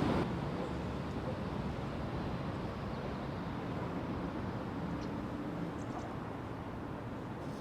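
Steady low outdoor background noise with no distinct event in it.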